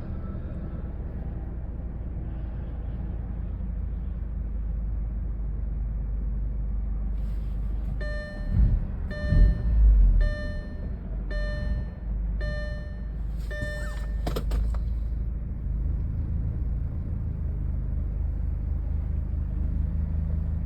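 Audi A4 B7 2.0 turbo engine idling roughly, a low steady rumble of an engine that is close to stalling. About eight seconds in come a few heavy thumps and a car warning chime that sounds six times about a second apart, then a short clatter of clicks.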